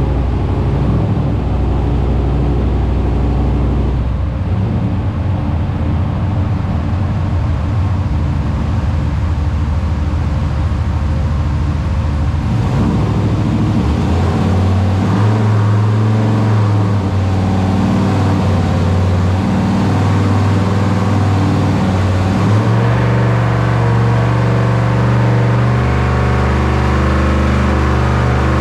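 Turbocharged 6.0-litre LS V8 of a Chevrolet Trailblazer SS running under load on a hub dyno, its engine note stepping up in pitch several times as it goes through a partial pull. This is a check of whether boost now holds after a wastegate fault.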